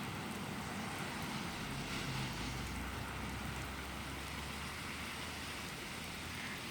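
Steady rain falling, an even hiss of drops, with a faint low rumble that swells briefly midway.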